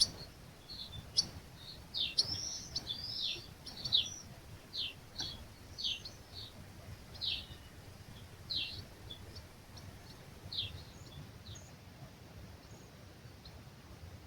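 Small birds giving short, high, repeated chirps, roughly one a second and thinning out near the end, over a soft low rumble of breeze on the microphone.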